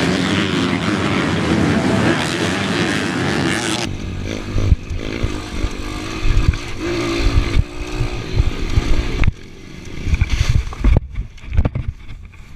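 Dirt bike engine running at high revs for about four seconds, then cutting abruptly to uneven low rumbling gusts of wind on the microphone with a fainter engine underneath.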